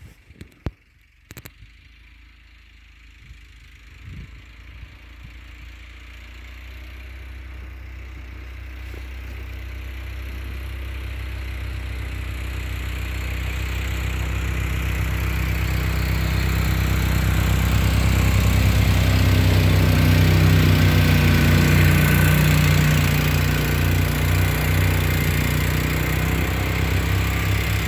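Buran snowmobile with a Lifan engine running, its low steady hum growing louder over about fifteen seconds and easing slightly near the end. A few sharp clicks come in the first second or two.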